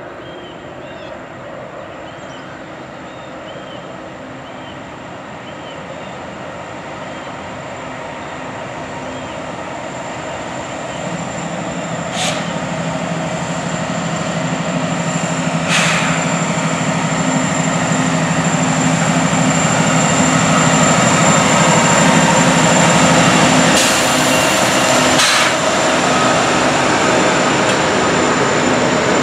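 Norfolk Southern diesel freight locomotive approaching and passing, growing steadily louder with a steady engine drone in its middle stretch. A few sharp knocks are heard along the way. Near the end the loaded flatcars roll by.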